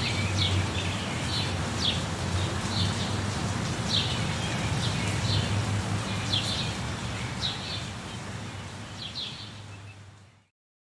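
Small birds chirping, short high calls about once a second, over a steady rushing background with a low hum. The recording fades out to silence about ten seconds in.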